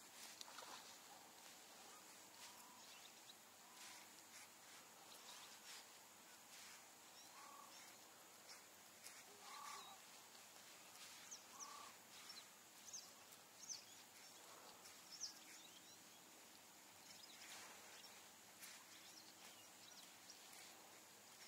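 Near silence: faint outdoor ambience with birds calling in the distance, a few short high chirps and some lower calls, and soft clicks now and then.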